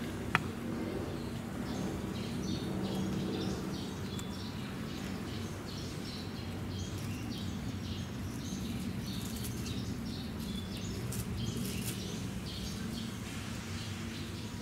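Small birds chirping repeatedly over a steady low background hum, with one sharp click about half a second in.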